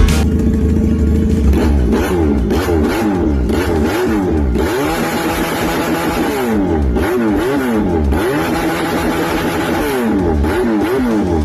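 Motorcycle engine of a Chinese-made BMW S1000RR replica being revved over and over, its pitch climbing and dropping again many times in quick succession, with a couple of short steady stretches between the revs.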